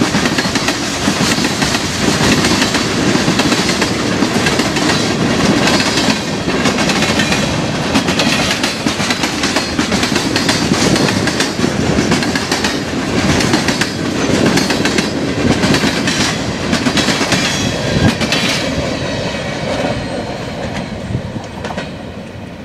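Long freight train of tank cars, hoppers and boxcars rolling past close by: a steady rumble with the wheels clicking over rail joints, fading over the last few seconds as the train draws away.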